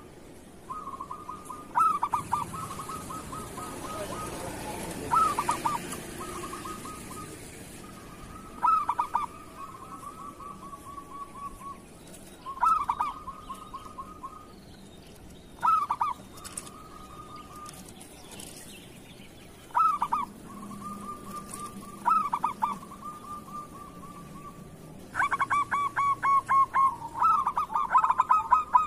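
Zebra dove (perkutut) cooing in repeated phrases about every three to four seconds. Each phrase is a few quick staccato notes followed by a drawn-out purring trill. Near the end the calls come thicker and overlap for a few seconds.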